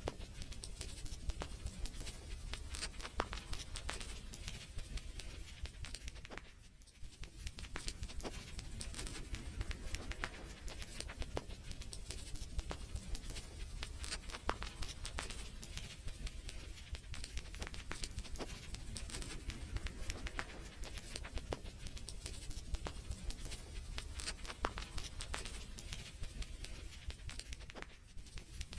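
Wood fire crackling in a fireplace: frequent sharp pops and snaps over a steady low rumble of the flames, with a brief lull about a quarter of the way through.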